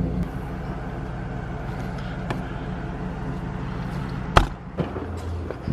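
Motorhome engine running at a steady idle, a low even hum. About four and a half seconds in a single sharp knock sounds, and the low hum drops away after it.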